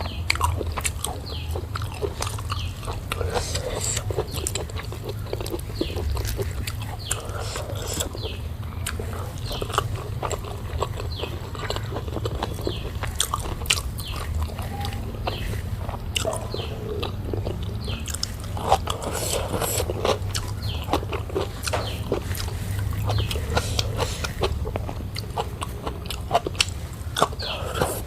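Close-miked eating: a person chewing and biting food with many irregular wet mouth clicks and smacks, over a steady low hum.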